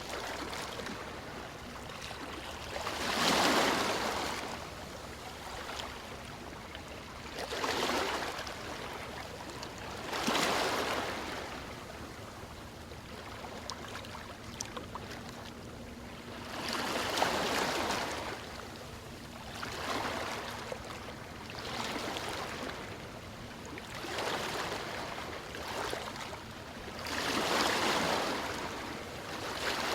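Ocean waves breaking and washing up the shore, each one a swelling rush of surf that dies back to a softer hiss, coming every few seconds at an uneven pace.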